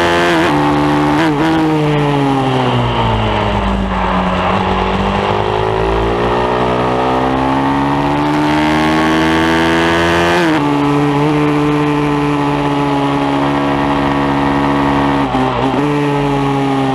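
Pit bike engine running hard under load. Its revs fall away for a few seconds, then climb back, with quick jumps in pitch at gear changes near the start, about ten seconds in and near the end.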